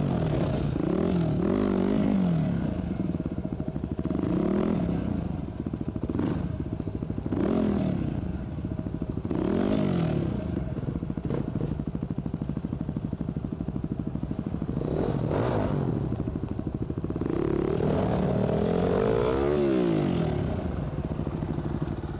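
Enduro motorcycle engine being revved again and again in short throttle bursts, its pitch rising and falling every few seconds over a steady running note.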